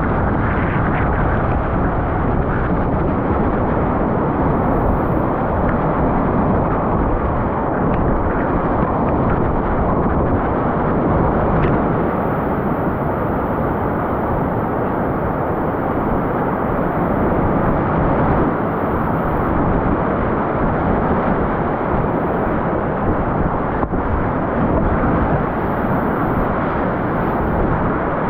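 Steady, loud rush of whitewater rapids, a dense roar of churning water with little high treble, so it sounds muffled.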